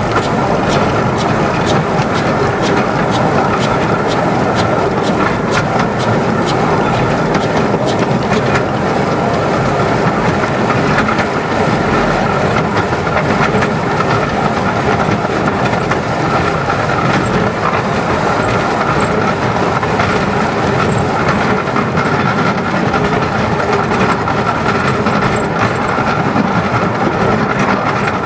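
Narrow-gauge steam train running steadily along the line, heard from an open carriage behind the locomotive, its wheels clicking over the rail joints throughout.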